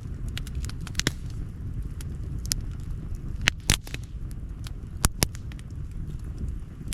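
Campfire burning and crackling, with scattered sharp pops of the wood, the loudest a few seconds in, over a steady low rumble.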